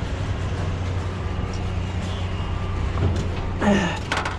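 Engine running steadily at idle, with a short clatter of knocks near the end.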